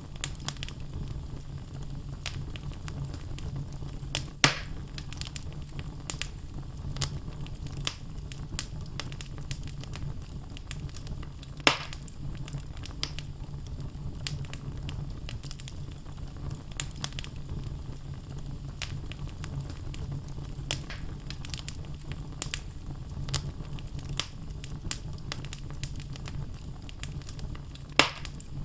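Wood logs burning in a fireplace: a steady low rumble of flames with frequent small crackles, and three louder pops about four seconds in, about twelve seconds in, and near the end.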